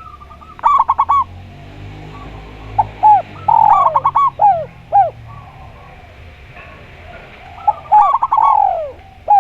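Spotted dove and zebra dove (perkutut) cooing over each other: repeated short coos that fall in pitch, and quick runs of clipped notes. The calls come in clusters about a second in, from about three to five seconds, and again near the end.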